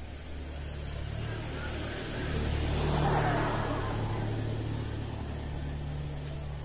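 A motor vehicle passing by: a low engine hum that grows louder to a peak about three seconds in, then fades.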